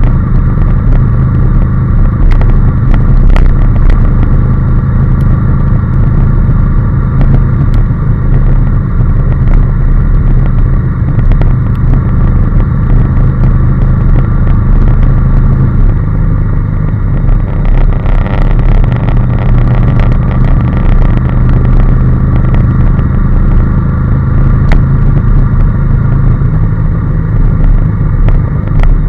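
Honda NC750S parallel-twin engine running steadily under way at cruising speed, with wind and road noise. The engine note steps slightly about sixteen seconds in.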